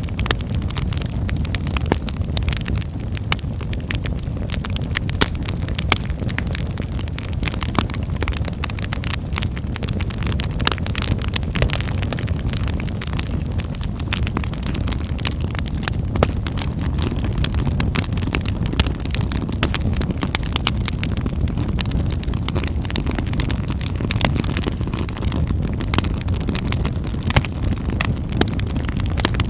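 Wood fire crackling in a fireplace: frequent sharp, irregular pops and snaps over a steady low rumble of the burning flames.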